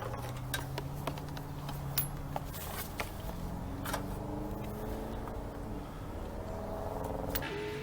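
Scattered light clicks and taps of small parts and tools being handled, over a steady background hum whose tones shift in pitch.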